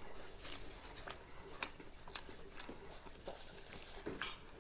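Faint close-miked chewing: soft wet mouth clicks and smacks, scattered and irregular, as a man chews a mouthful of food.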